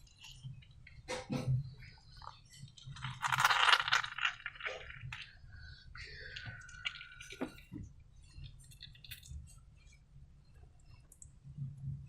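Slime being squished and worked by hand, with sticky wet clicks and light taps. A louder squelch comes about three and a half seconds in, and a short falling squeak near the middle.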